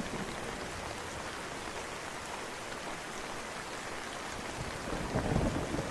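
Steady rain falling, with a low thunder rumble building up near the end.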